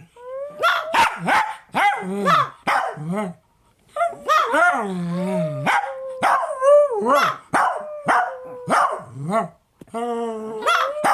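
Dogs howling together: long wavering howls mixed with short barks and yips.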